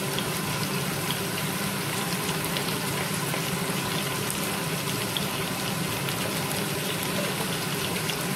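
Cubed pumpkin and potato sizzling steadily in hot oil in a kadai, with faint scattered crackles, as the vegetables fry with turmeric sprinkled over them.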